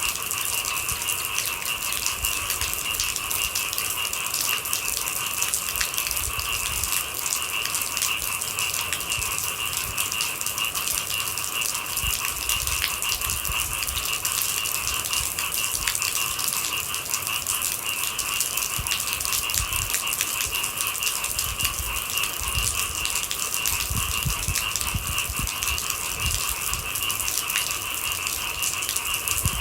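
Steady rain with fine, dense pattering, over a constant high-pitched chorus of night animals.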